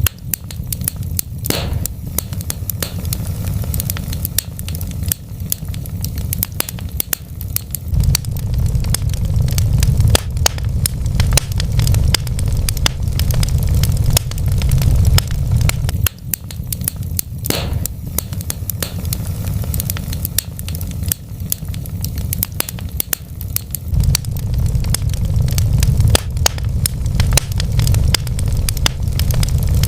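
Wood fire burning in a fireplace: a steady low rumble with many sharp crackles and pops from the burning logs.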